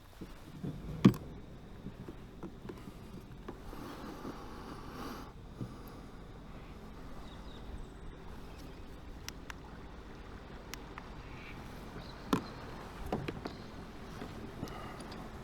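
Sea-Doo jet ski sitting on the water with a low steady rumble and water noise, broken by two sharp knocks, a loud one about a second in and another about twelve seconds in.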